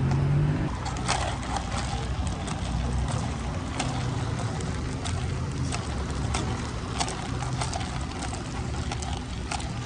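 Deep bass playing through a semi truck's car-audio system of eight 12-inch subwoofers on 60,000 watts, the low notes shifting every second or so, with scattered rattling clicks throughout.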